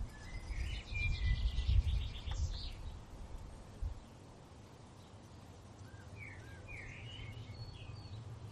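A songbird sings two short phrases of quick chirping notes, one at the start and another about six seconds in. A low wind rumble runs under the first phrase and fades about four seconds in.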